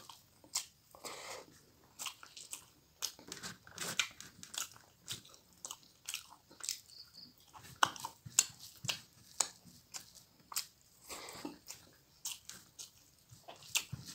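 Close-miked chewing and mouth sounds of a man eating rice and pork fry: a quick, irregular run of wet clicks throughout.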